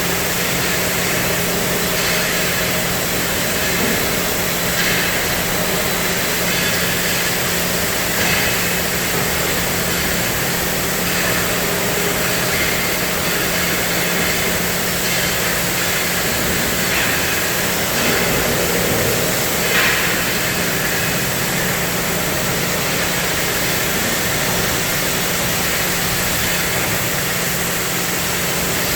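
CNC cutting machine at work, a steady loud hiss over a constant low hum.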